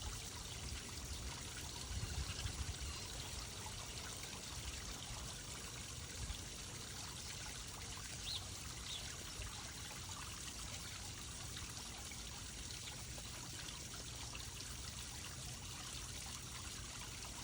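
Steady trickling, running water, with a few low bumps about two seconds in and one faint short high note near the middle.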